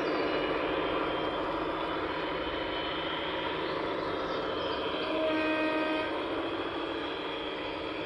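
A large vehicle running with a steady mechanical noise, and a brief pitched horn-like tone about five seconds in that lasts about a second.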